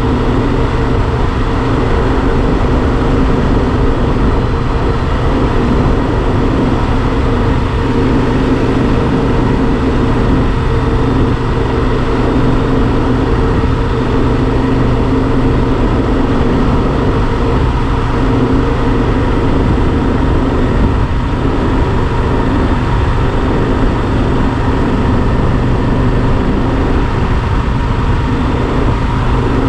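Yamaha Super Ténéré XT1200's parallel-twin engine running at a steady cruising speed, with heavy wind rush on the microphone.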